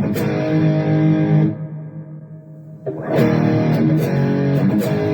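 Electric guitar played through the Donner Arena2000 multi-effects pedal with its lead boost effect driving a modelled amp: a strummed chord rings for about a second and a half and fades, then a second chord is strummed about three seconds in and rings on.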